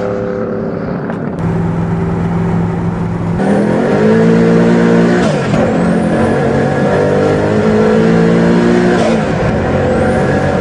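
A high-performance car engine being revved: the pitch climbs about three and a half seconds in, is held, dips briefly, is held again and drops back near the end, in clips spliced together.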